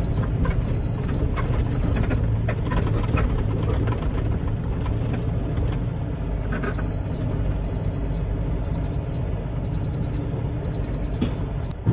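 Semi truck backing up: its back-up alarm beeps about once a second over the steady running of the diesel engine, pausing for a few seconds midway before starting again. A single sharp knock comes near the end.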